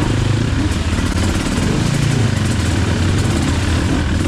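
Enduro dirt bike engine running steadily without revving.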